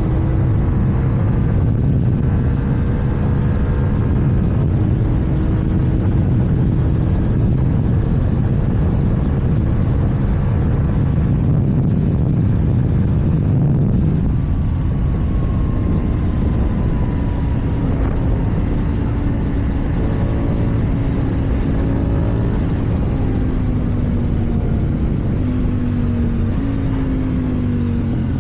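KTM 790 Duke's parallel-twin engine with an Akrapovic exhaust running while riding, over steady wind rumble. The engine note drifts lower in the last few seconds.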